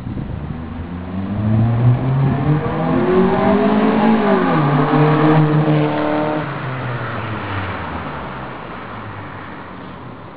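Hyundai Tiburon four-cylinder engine through a 2.5-inch cat-back exhaust with an 18-inch Thrush glasspack muffler, accelerating with its pitch climbing. The pitch drops about four and a half seconds in, then the sound fades away as the car moves off.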